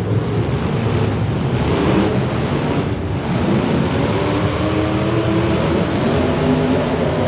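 Several demolition derby cars' engines running hard and revving at once, their pitches rising and falling against one another over a dense, rushing noise.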